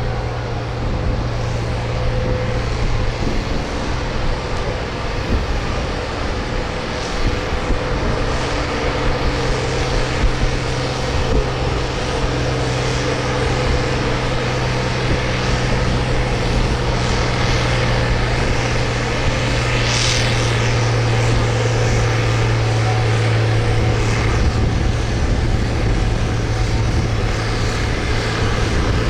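Farm stock pulling tractor's engine running loud and steady at high revs, under load while pulling the sled. A brief hiss comes about two-thirds of the way through.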